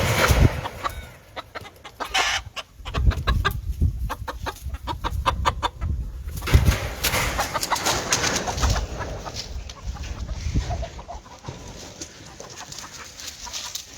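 Gamefowl chickens clucking, with a quick regular run of short calls a few seconds in. Low thumps sound near the start and again around the middle.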